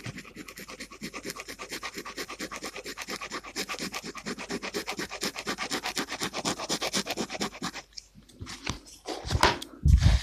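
Gel pen scratching on paper in rapid, even back-and-forth strokes, colouring in a mandala, for about eight seconds; near the end, a couple of louder thumps.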